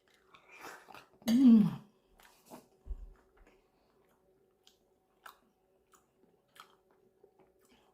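A person's close-up chewing and mouth sounds while eating. There is a short voiced sound about a second and a half in, then faint scattered clicks.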